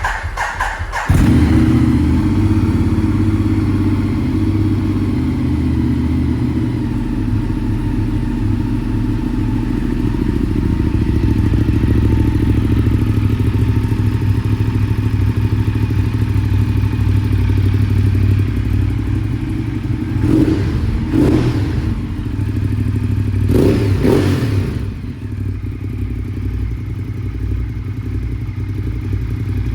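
A Ducati Diavel's 1198 cc Testastretta L-twin, fitted with a Termignoni exhaust, cranks and catches about a second in, then idles with a steady, loud beat. It is blipped twice briefly and once for longer near the end.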